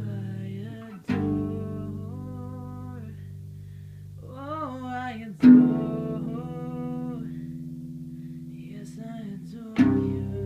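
Acoustic guitar played slowly: a chord struck about every four seconds and left to ring out, with a short sliding melodic phrase between.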